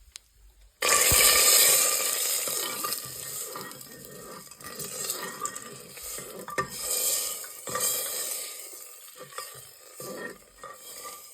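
Food frying in hot oil in a pan for dal fry: a sudden loud sizzle starts about a second in, as when ingredients hit the hot oil, then keeps sizzling, slowly dying down and rising again while a spoon stirs and clinks against the pan.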